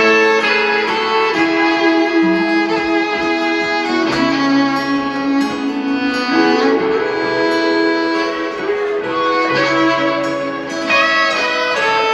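Fiddle playing a lead melody over strummed guitar and band backing in an instrumental break of a country-rock song.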